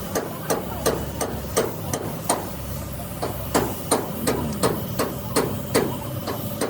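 Hammer blows on metal at a steady pace of about three a second, each with a short ring, the hand-beating of sheet metal in a bus body workshop. A low steady hum runs underneath.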